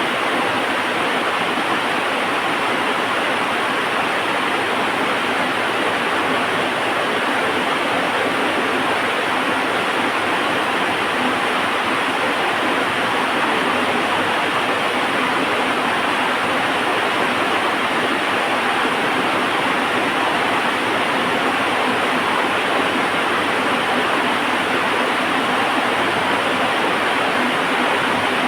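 Heavy rain falling steadily, an even hiss with no let-up and no thunder.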